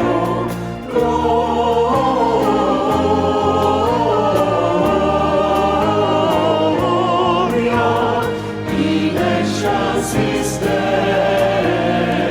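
Church choir singing a Christmas anthem, the voices holding long notes over sustained low accompaniment.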